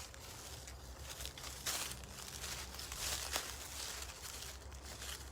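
Rustling and crunching, with two louder crunches, one a little under two seconds in and one about three seconds in.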